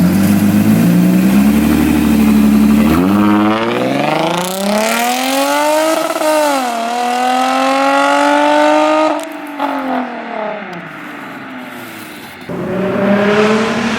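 Cadillac CTS-V V8 making a hard acceleration run. The engine note climbs, dips briefly at an upshift about six seconds in, and climbs again. The throttle lifts about nine seconds in and the sound falls away. A nearby engine idles steadily near the end.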